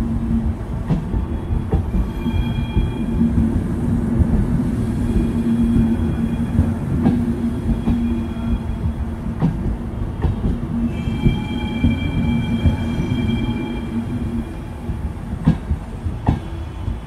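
Passenger train of coaches rolling out past the platform: rumbling wheels clicking over rail joints and points, with a steady low hum and thin high wheel squeals that come and go. The rumble eases a little near the end as the last coach draws away.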